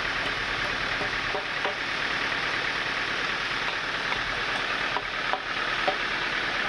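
Sawmill machinery running steadily: a constant, even mechanical noise with a few faint light knocks.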